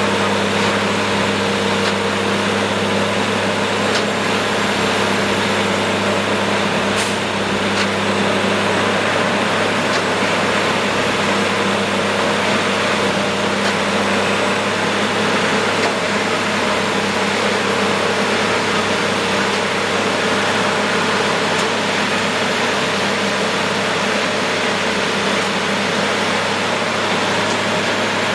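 Plasser & Theurer Duomatic 08-32 railway ballast tamping machine running at work, a loud steady drone with a constant low hum over a haze of mechanical noise.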